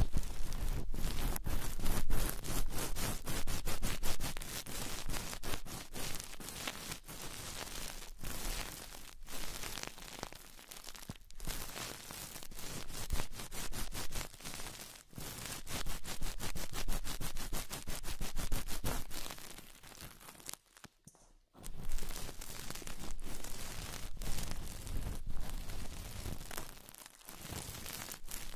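Close-miked crackling and rustling scratches, a dense run of tiny clicks like an ASMR trigger object being rubbed or crinkled, with one short silent break about three-quarters of the way through.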